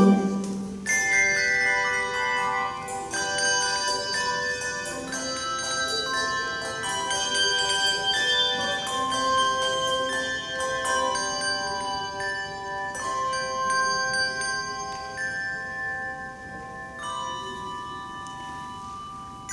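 Handbell choir playing a melody over sustained ringing chords, the notes changing every second or two. The bells grow quieter and ring on over the last few seconds.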